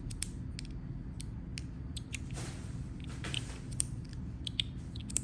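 A small fidget toy being handled, giving irregular light clicks, with two brief rustles around the middle.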